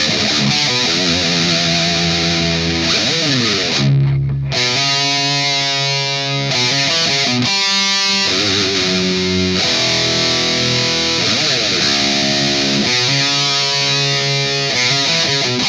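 Distorted electric guitar riffing: held notes with vibrato, sliding notes, and a heavy low chord about four seconds in.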